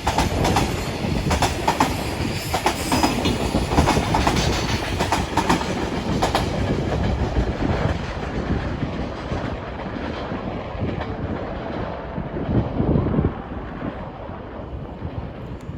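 A train passing at speed, its wheels clattering rhythmically over the rail joints; after about eight seconds the clatter fades as the train moves away, leaving a lower rumble.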